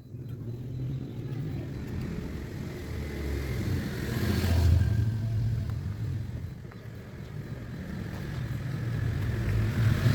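A motor vehicle engine running with a low rumble, swelling louder about halfway through and again near the end.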